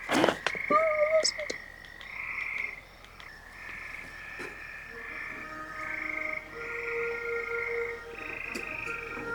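A chorus of frogs calling in a string of short trills, one after another, about once a second.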